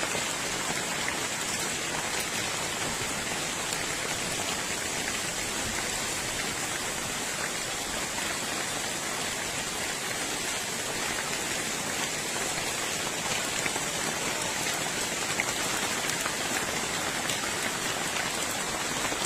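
Hailstones pelting down in a heavy hailstorm: a steady, dense patter with scattered sharper ticks of stones striking.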